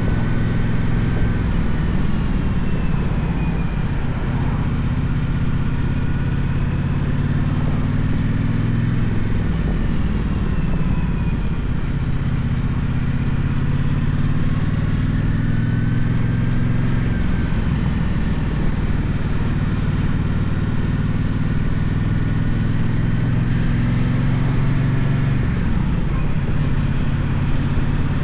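Gaokin GK1200 motorcycle engine running under way, its note rising and falling several times with throttle and gear changes.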